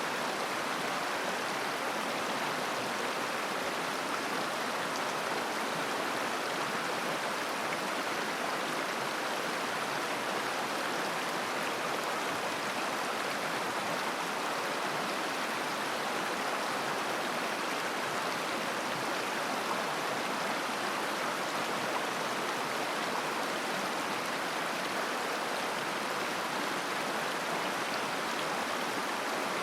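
Shallow mountain river flowing and babbling over stones, a steady even rush of water with no change.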